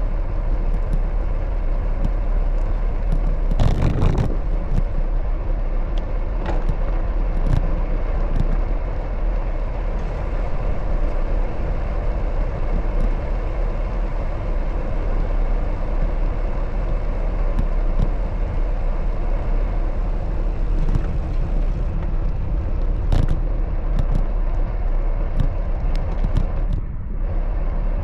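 Wind rumbling on the microphone during a bicycle ride, over the steady noise of road traffic, with a knock about four seconds in and scattered light clicks.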